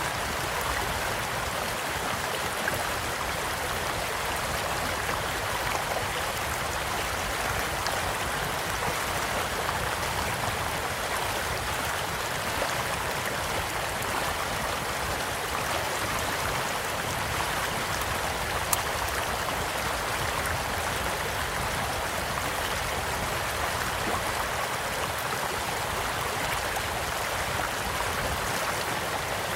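Steady rushing and burbling of a flowing stream, with a campfire crackling now and then in sharp little pops. One pop stands out about two-thirds of the way through.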